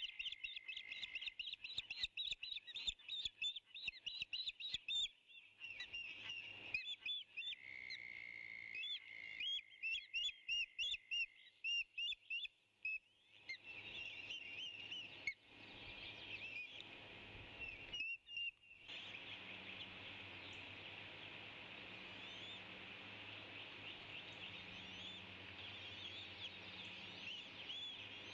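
A flock of small birds chirping, with many short high calls in quick succession that merge into a dense, continuous chattering chorus about halfway through.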